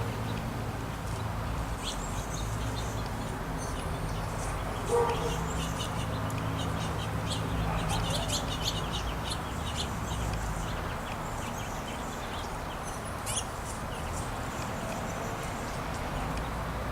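Small songbirds at a feeder chirping and twittering in many short high calls, busiest in the middle of the stretch, over a steady low hum. A short lower call sounds once about five seconds in.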